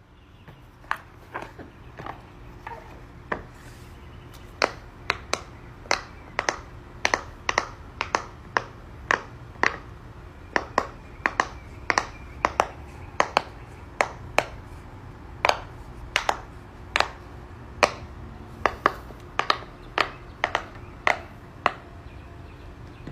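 Fidget toy being clicked or popped by hand: a long run of sharp pops, about two a second and uneven in strength, over a steady low hum.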